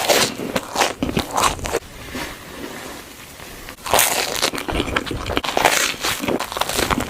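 Close-miked chewing and crunching of food, with a quieter stretch around two to four seconds in before the crunching picks up again.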